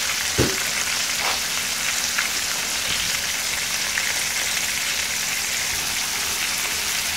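Slices of beef liver frying in shallow oil in a skillet: a steady sizzle with an occasional small pop in the first couple of seconds.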